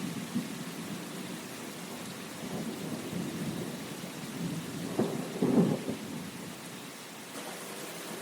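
Steady rain falling, with low rumbles that swell and fade, loudest about five and a half seconds in.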